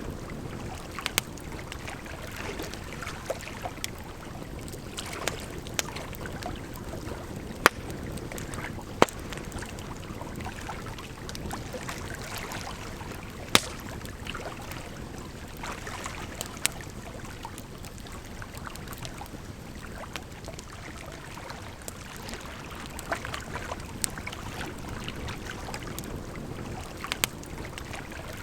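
Campfire crackling, with sharp irregular pops and snaps, over a steady rush of running water.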